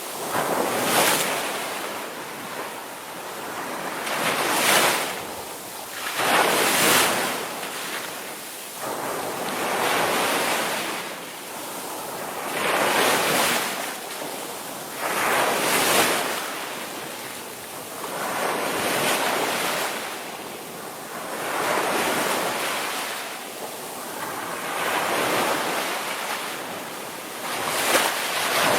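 Ocean waves breaking on the shore, surges of surf swelling and washing back about every two to three seconds, with wind buffeting the microphone.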